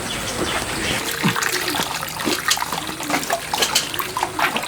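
Water trickling and splashing, with many irregular small splashes and drips.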